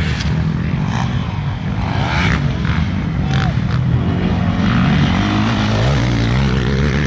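Motocross bike engines racing on the track, running loud and steady with pitch rising and falling as the riders open and close the throttle.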